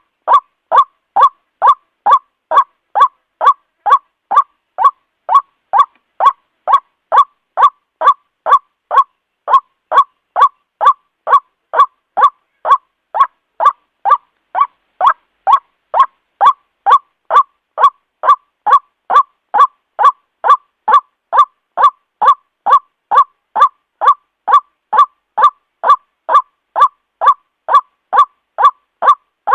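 White-breasted waterhen calling over and over: short, loud, evenly spaced notes at about two a second, the call used to lure waterhens in.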